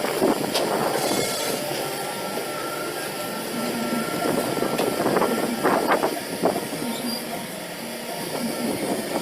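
Amphibious excavator coming ashore, its engine running under a steady mechanical din with metallic squealing and several sharp clanks, most of them about six seconds in.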